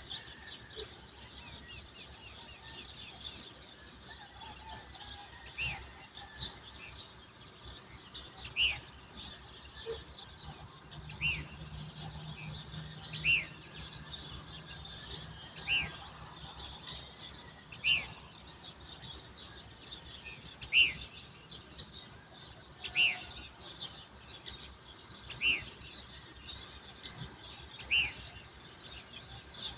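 Dawn bird chorus: many small birds twitter continuously, and one bird gives a loud, sharp chirp every two to three seconds. A faint low hum comes in for several seconds in the middle.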